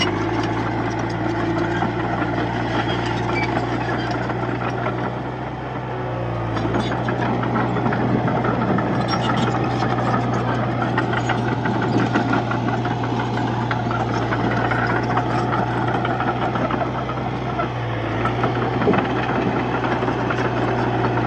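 Diesel engine of a Komatsu D31P bulldozer running steadily, its pitch dipping briefly about six seconds in and again near eighteen seconds.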